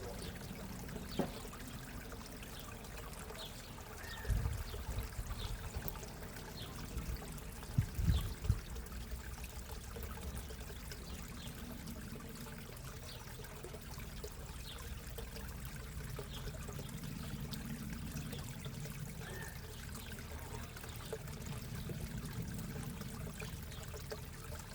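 Backyard koi pond's water trickling and pouring steadily, with a few low thumps about four and eight seconds in.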